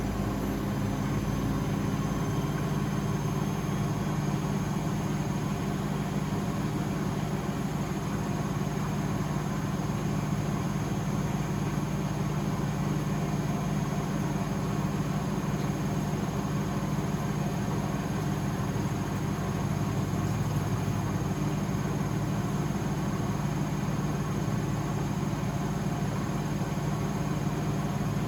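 Blomberg WAF 7442 SL washing machine running steadily: a continuous low motor hum with a faint high whine above it, unbroken throughout.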